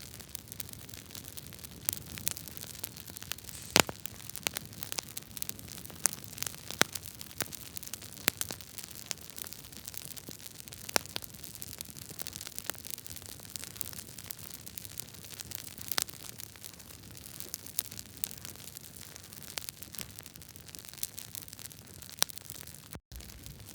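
Wood fire crackling in a fireplace: burning logs give a steady soft hiss with frequent sharp pops and snaps, the loudest about four seconds in. The sound cuts out for an instant near the end.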